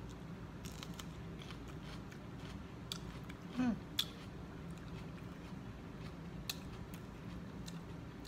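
Close mouth sounds of eating raw sweet pepper: scattered crisp chewing clicks and crunches, with a short hum a little past three and a half seconds in.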